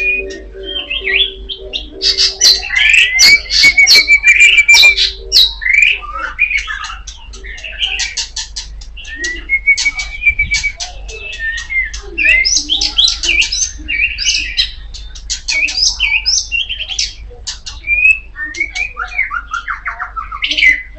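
Oriental magpie-robin (kacer poci) singing loudly: a fast, varied string of chirps, whistles and scratchy notes, broken by a few quick trills.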